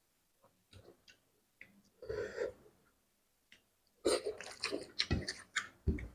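A person eating fish curry with close mouth sounds: wet chewing, lip smacks and small clicks. There is a short burst about two seconds in and a busier run of smacks in the last two seconds.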